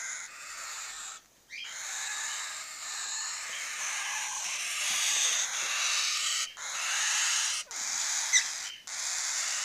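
Baby cockatiels making long, raspy hissing calls, one after another with short breaks between them. A short sharp click about eight seconds in.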